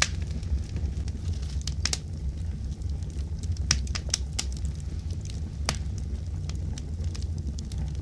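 Wood fire in a fireplace crackling, with a steady low rumble and a handful of sharp pops.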